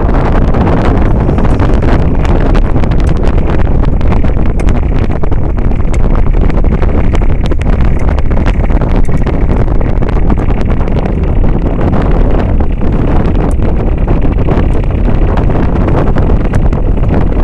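Loud, steady wind buffeting the microphone on a moving boat, over the running of the boat's engine.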